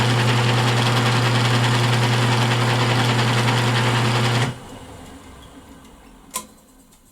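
Electric motor spinning a wooden edge burnisher against a leather edge: a steady hum with rubbing noise. About four and a half seconds in it is switched off and winds down, with one sharp click near the end.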